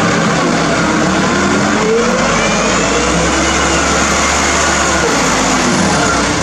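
Hino truck's diesel engine running steadily under a load of cassava, with a faint whine rising and falling in the middle.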